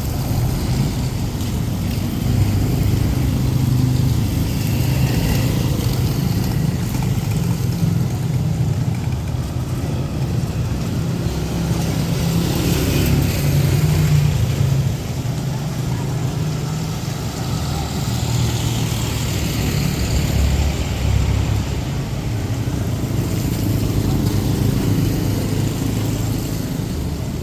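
Street traffic: motor vehicle engines running close by as a steady low rumble, with vehicles passing about twelve seconds in and again around eighteen to twenty seconds in.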